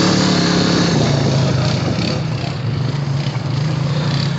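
Honda Rancher ATV engine running as it is ridden along a trail, its pitch settling a little lower about a second in and then holding steady.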